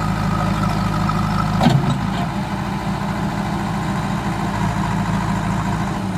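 Diesel engines of a backhoe loader and a tractor running steadily under load, with a single sharp snap about a second and a half in as the tow rope breaks under the strain.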